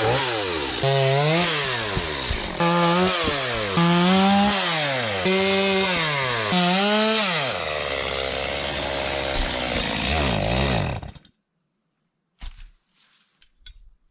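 Two-stroke chainsaw cutting wood, revving up and dropping under load about five times, then running steadily before it cuts off suddenly near the end. A few faint clicks follow. The owner believes the bar is slightly bent and the chain is chafing, overheating the bar.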